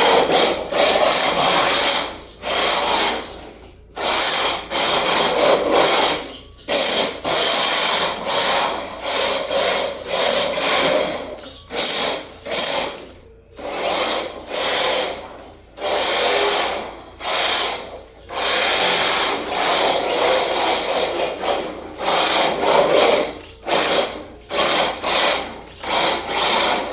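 Electric Tamiya RC drift car driven in repeated short bursts of throttle: the motor whirring while its hard PVC-pipe drift tires scrape and slide. Each burst lasts about one to two seconds, with brief pauses between.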